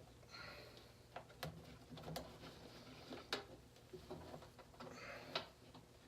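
Faint scattered clicks and taps, a dozen or so irregular sharp ticks with light rustling between them.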